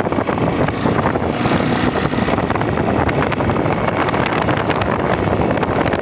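Motorcycle running at speed while being ridden, its engine noise mixed with wind buffeting the microphone; a steady, loud, rushing sound.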